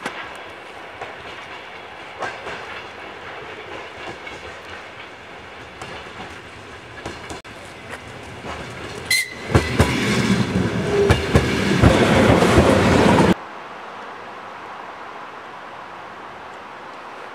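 A train passing on the track, its wheels clattering over the rail joints. It gets much louder about nine seconds in, then cuts off abruptly about four seconds later, leaving a steady hiss.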